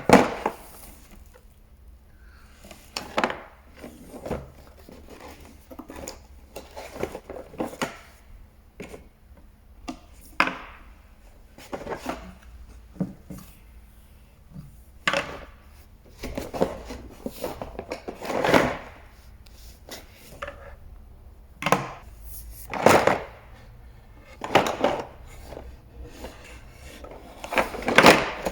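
Irregular knocks, clicks and rustles of small toy pieces being picked up, set down and handled on a hard surface.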